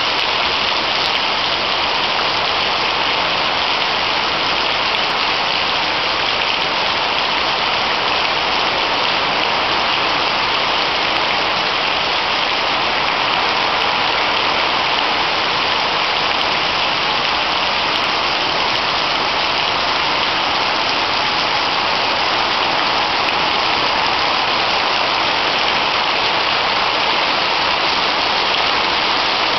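Heavy tropical rain pouring down and drumming on surfaces, a dense, steady hiss.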